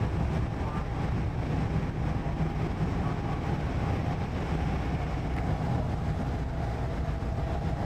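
Steady running noise inside a Korean-built MTR East Rail Line train (Hyundai Rotem R-train) in motion: a low, even rumble with a faint steady whine above it.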